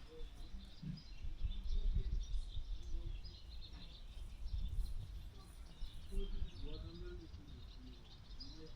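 Small birds chirping repeatedly, over the uneven low rumble of wind on the microphone.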